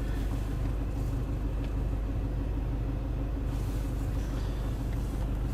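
Toyota Land Cruiser Prado's diesel engine idling steadily: an even low hum heard from inside the cabin.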